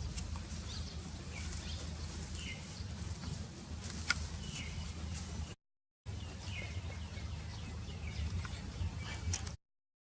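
Small birds chirping outdoors in short, falling calls repeated every second or so, over a steady low background rumble, with one sharp click about four seconds in. The sound cuts out completely twice for a fraction of a second.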